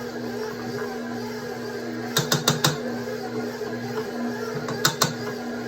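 Electric stand mixer running steadily, its dough hook kneading a thick bread dough, with a quick run of four sharp clicks about two seconds in and two more near the end.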